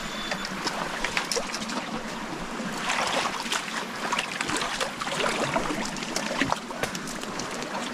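Stream water splashing and sloshing around people wading through a shallow creek, with frequent irregular small splashes.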